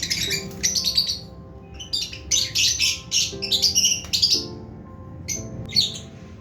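Lovebirds chirping in quick runs of sharp, high calls, with a pause of about a second between runs, over background music of slow held notes.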